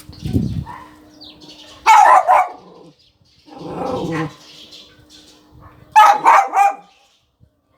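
Dog barking in two short bouts of a few quick barks each, about two seconds in and again about six seconds in, with softer lower dog sounds in between.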